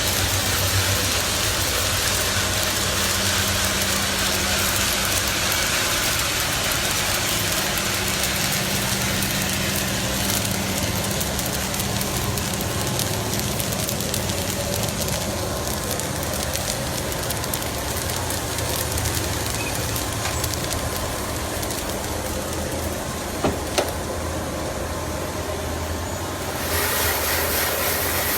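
Wood-fired coffee roaster running: a steady mechanical hum under a constant rushing noise, with two sharp clicks about 24 seconds in.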